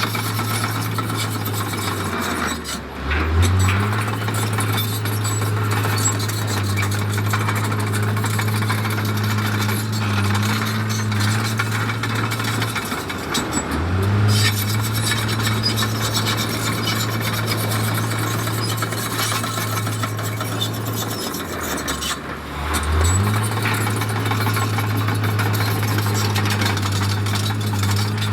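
Heavy earthmoving machine's diesel engine running under load. Its note sags and climbs back three times, with steady scraping and grinding noise throughout.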